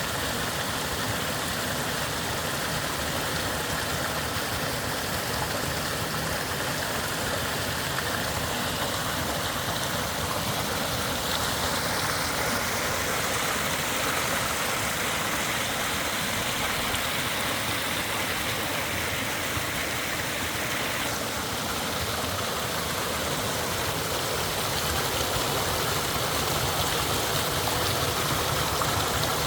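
Flowing water rushing steadily, with a low rumble under it; the sound's character shifts slightly about twelve and twenty-one seconds in.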